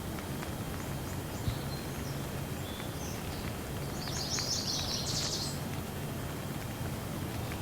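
Steady light rain with a low rumble underneath and a few faint drop clicks. A bird chirps a few times, with a quick run of notes about four to five seconds in.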